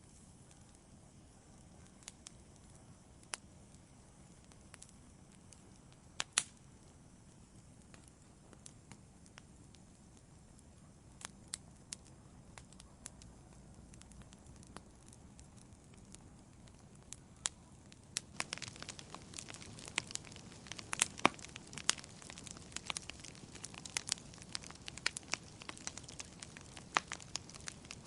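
Campfire crackling. Sparse, sharp pops come over a low hiss at first; from about eighteen seconds in the crackling grows denser and louder, with many pops in quick succession.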